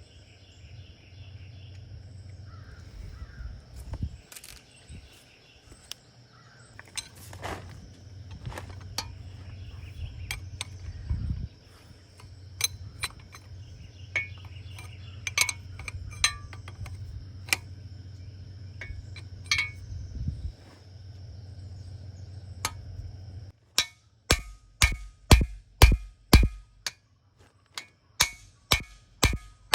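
Steady low hum with scattered clicks and knocks, typical of hand tools being worked in a workshop. Near the end the hum stops and music with an even, woody percussive beat starts.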